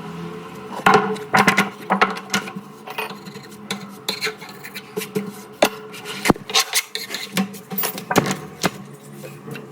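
Irregular sharp knocks and metallic clatter, as woodworking tools and pieces are handled and struck, a dozen or more hits spread over several seconds.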